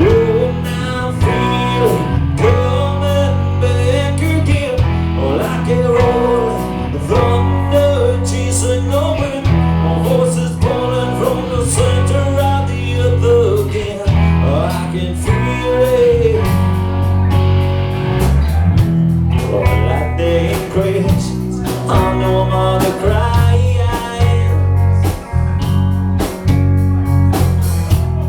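Live rock band playing a slow song: a singer's long, wavering vocal line over guitar and bass.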